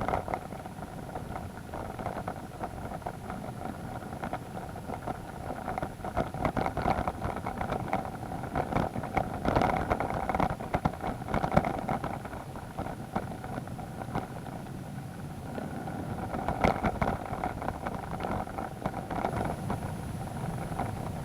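BMW adventure motorcycle engine running at a steady, even pitch while riding a rough mud road, with frequent irregular knocks and rattles.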